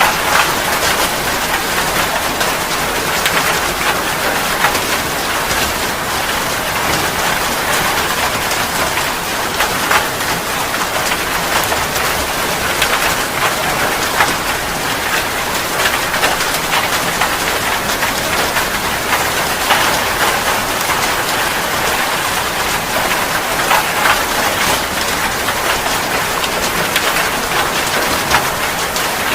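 Steady rain, a dense even hiss with many sharp drop impacts on a surface.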